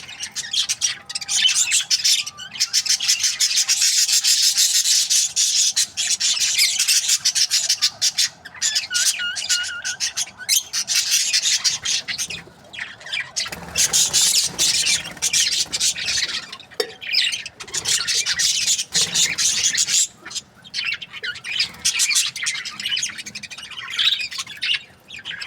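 Budgerigar chirping and warbling in a rapid, continuous chatter, broken by a few short pauses.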